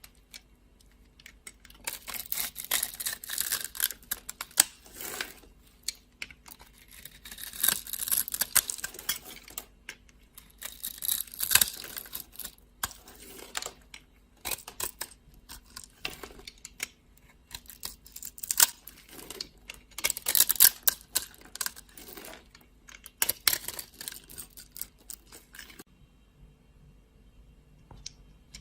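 Knife cutting and carving dry soap: crisp, crunchy scraping and crackling in bursts of a few seconds, with short pauses between and a lull near the end.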